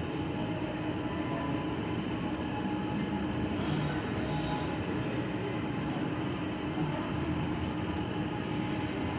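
Casino floor din: a steady wash of slot machine noise and hum, with short high electronic chimes from the machines twice, about a second and a half in and near the end.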